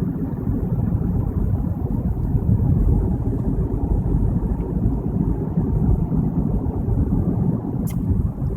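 Steady low rumble of road and engine noise inside a car's cabin at freeway speed, with a faint short click near the end.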